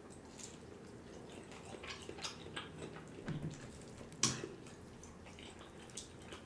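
Faint mouth clicks and smacks of a person chewing food, with one sharper click about four seconds in.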